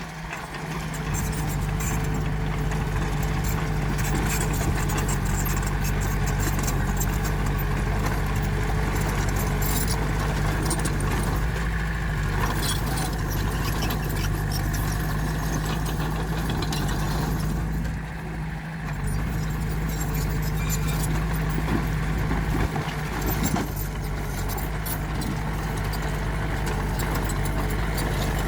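Diesel engine of heavy earthmoving machinery running steadily, rising within the first second and easing off briefly about two-thirds through.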